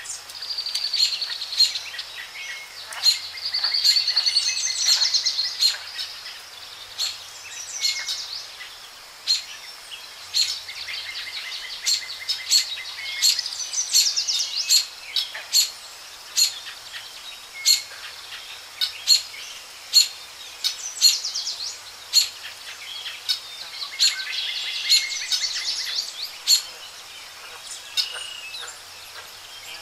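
Birds chirping and singing: many overlapping short chirps and quick trills, with frequent short, sharp notes.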